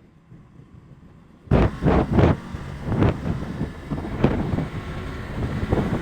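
Wind buffeting the microphone on a moving KTM Duke 200 motorcycle, in uneven gusts over the bike's running noise; it starts suddenly about a second and a half in, after a quieter stretch.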